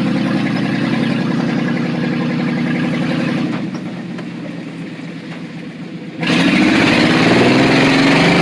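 1991 Chevy 1500 pickup's engine running steadily under load, easing off about three and a half seconds in. About six seconds in it is suddenly opened up and revs loud, its pitch rising and falling as the truck pushes through mud.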